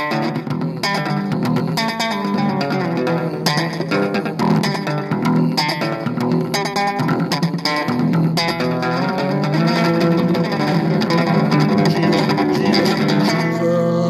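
Gospel music led by an electric bass guitar playing a busy, thumping line, with sharp percussive hits throughout.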